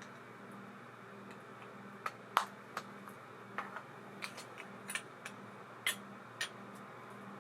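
Irregular small sharp clicks and taps from handling an ABU Ambassadeur 2500C baitcasting reel and its parts, starting about two seconds in, over a low steady hum.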